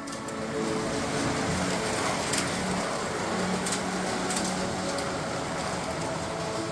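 1:32 slot cars running on a plastic track: a steady whirring hiss of small electric motors and guide braids, with a few brief clicks. Faint background music plays underneath.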